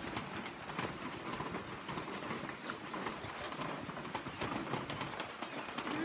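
Rain falling: a steady hiss with many irregular drops tapping sharply on a nearby surface.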